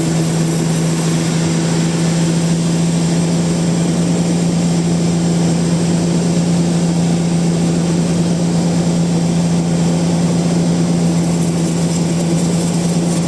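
Band sawmill running steadily: a constant hum with an even noisy hiss over it, holding the same level throughout.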